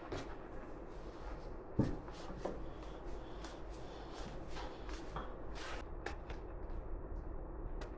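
Scattered small clicks and rustles of parts and tools being handled, with one louder knock about two seconds in, over a steady low hum.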